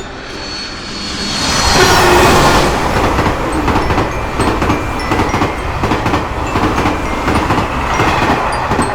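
A train passing over a level crossing. The rush of its wagons swells to a peak about two seconds in and stays loud, while the crossing's warning bell keeps ringing faintly underneath.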